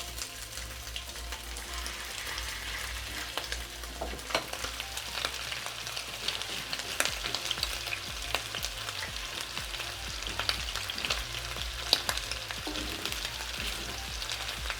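Marinated beef strips sizzling in hot oil in a pan, a steady hiss with frequent crackling pops, a few louder ones scattered through. The meat is being left undisturbed to sear a crust on the bottom.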